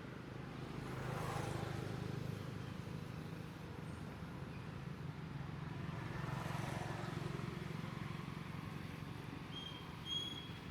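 Road traffic passing: two vehicles go by one after the other, each swelling and fading over a steady low engine hum. A few short high chirps come near the end.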